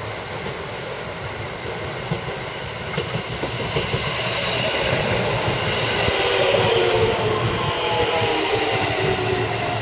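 JR West 223 series electric multiple unit pulling into a station platform and slowing. The rumble and clatter of the wheels grow louder as the cars pass close by, peaking about six seconds in, along with a whine that falls in pitch as the train brakes.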